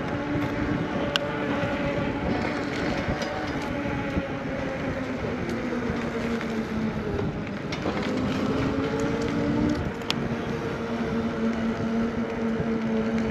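Riding an electric bike: a steady motor hum that slowly shifts in pitch with speed, over tyre and wind noise, with a couple of sharp clicks.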